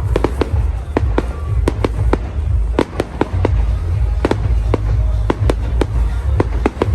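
Fireworks display: bangs and cracks going off in quick, irregular succession, about three a second, over a constant low rumble.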